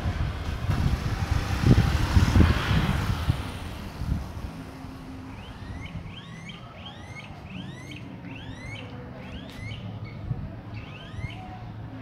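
A flock of smooth-billed anis calling, a quick run of rising whistled whines repeated over and over, starting about five seconds in. Before that, a low rumble of street noise fills the first few seconds.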